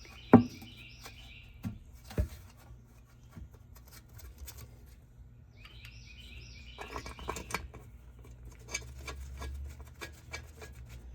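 Sharp metal knocks and clicks as the differential cover and its bolts are fitted by hand, the loudest knock about a third of a second in and a run of lighter clicks near the end. Birds chirp in the background.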